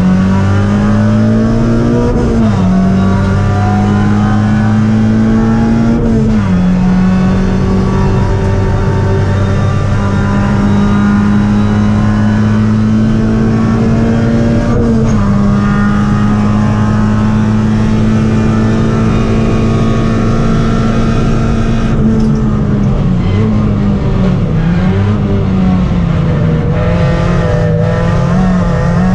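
Škoda Fabia race car's engine heard from inside the cabin, running hard under load. Its pitch climbs through each gear and drops suddenly at upshifts about 2, 6 and 15 seconds in. Late on, the revs dip and rise several times.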